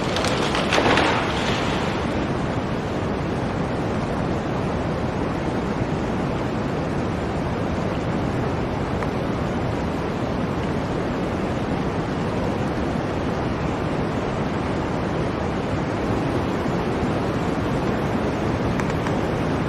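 Blizzard wind blowing steadily in a continuous rushing hiss, with a louder gust in the first couple of seconds.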